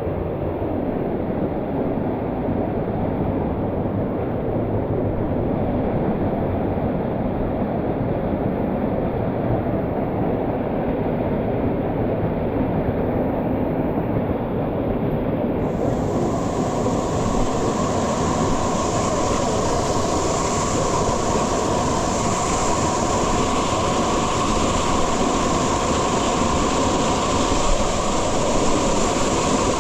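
Steady roar of a waterfall and rushing mountain-stream water. The sound turns brighter and hissier about halfway through.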